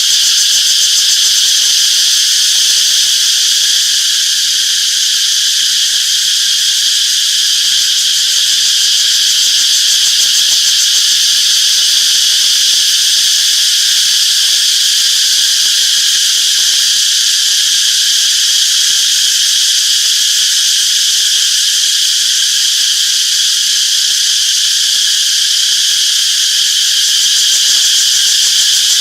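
Cicadas in chorus: a continuous, steady high-pitched buzzing drone that neither swells nor breaks.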